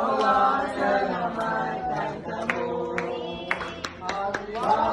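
Several people singing or chanting together without instruments, their voices overlapping, with a few sharp clicks in the middle.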